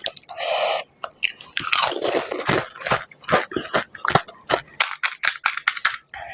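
Close-up chewing of panipuri (golgappa): crisp fried puri shells filled with spicy water crunching between the teeth in quick, irregular crackles. A brief breathy rush comes about half a second in.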